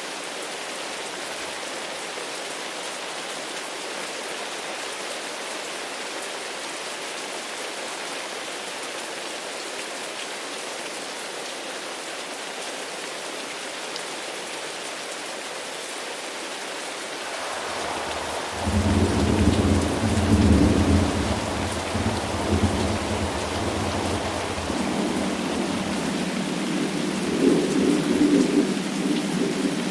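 Steady rain falling in a thunderstorm. About two-thirds of the way through, a deep thunder rumble builds and keeps rolling, swelling twice.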